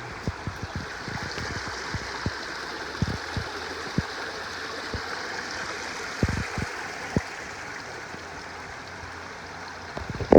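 Small mountain stream running down a series of little cascades: a steady rushing and splashing of water, with occasional short low thumps.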